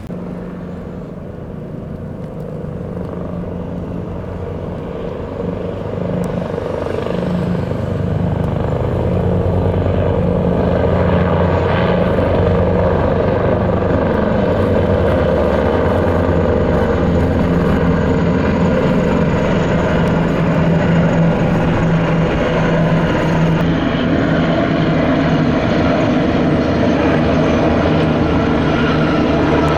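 Military aircraft passing overhead in a flypast: a steady low engine drone that grows louder over the first ten seconds or so, then holds.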